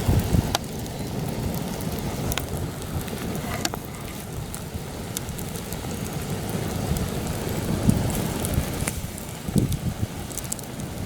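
Campfire crackling with occasional sharp pops, under heavy gusty wind that buffets the microphone with a low rumble.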